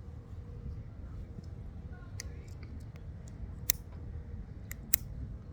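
A few sharp, short clicks over a steady low rumble, the two loudest about three and a half and five seconds in.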